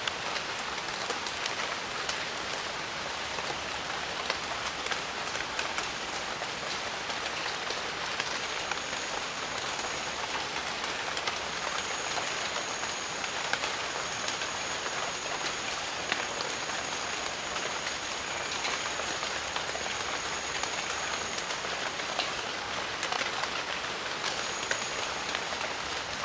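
Steady rain in a jungle: a dense, even hiss with many separate drops ticking close by. A thin, high steady tone joins in for most of the middle and again near the end.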